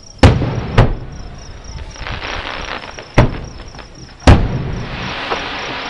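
Fireworks shells bursting about a mile away: four sharp bangs, two close together at the start, one about three seconds in and the loudest about four seconds in. Each bang is followed by a rolling echo. Crickets chirp steadily underneath.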